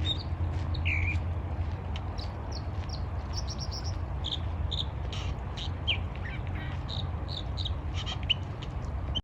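Wild birds chirping and calling: many short, high chirps scattered throughout, over a low steady rumble.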